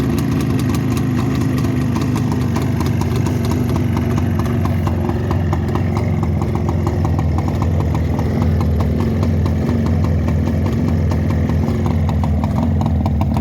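CZ 350 two-stroke motorcycle engine running steadily at idle with an even pulsing beat, just after starting after 20 years laid up; the owner notes it is running on one cylinder.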